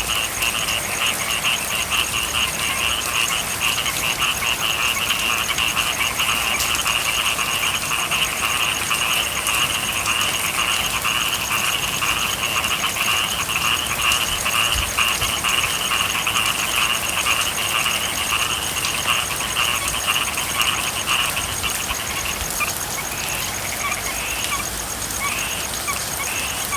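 A dense chorus of frogs calling over steady rain. About three-quarters of the way through, the chorus thins into separate, broken calls.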